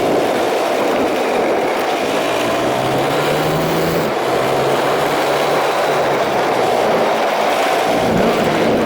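Dirt bike engine running steadily as the bike is ridden along a trail. The engine note rises a little about three seconds in and settles back down about a second later.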